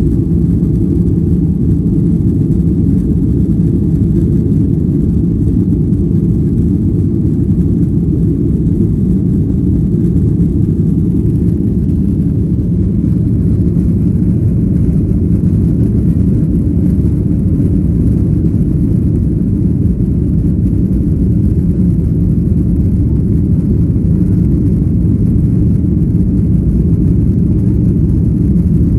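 Steady low rumble inside an airliner's cabin: engine and airflow noise, loud and unchanging throughout.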